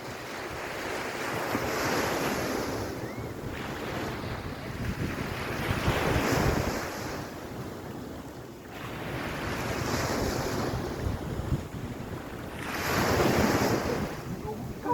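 Waves washing onto the beach, each one swelling and falling away about every four seconds, with wind buffeting the microphone.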